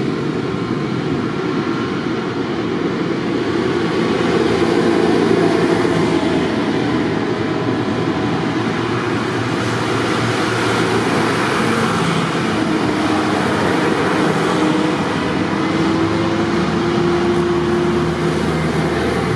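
Tractor engines running steadily, a continuous loud mechanical drone with no break.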